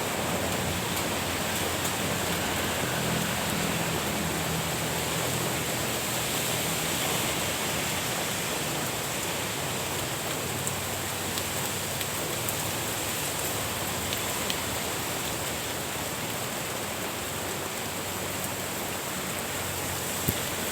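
Steady rain falling, an even hiss with scattered sharper drop ticks, one louder near the end.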